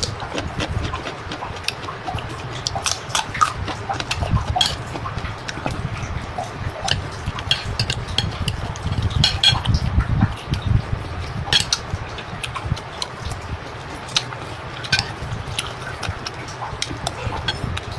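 Eating sounds: chewing and slurping, with frequent sharp clicks of utensils against a dish.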